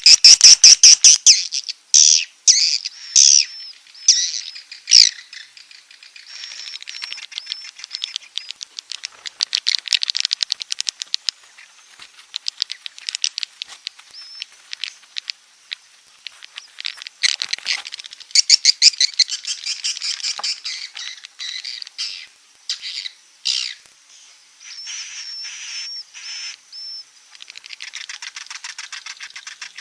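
Swiftlets (walet) calling: high-pitched chirps and rapid trains of clicks in repeated bursts with short gaps, the 'inap' roosting call.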